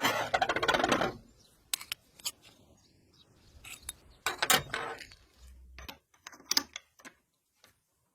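Metal tools and parts clattering and clicking as they are handled: a burst of clatter in the first second, then scattered clicks and short rattles.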